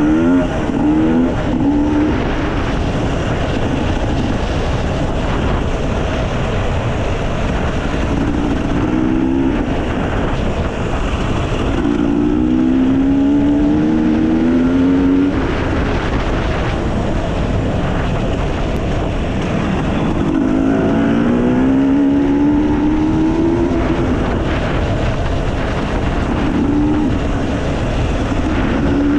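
Enduro dirt bike engine running under throttle, its pitch climbing in two long pulls in the middle, with shorter bursts of throttle near the start and near the end.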